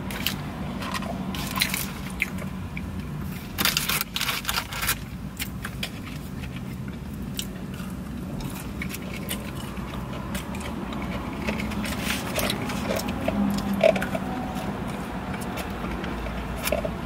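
Close-up eating sounds of crispy breaded chicken fries: sharp crunching bites, thickest in the first five seconds, then softer chewing and a few small crunches. A steady low hum runs underneath.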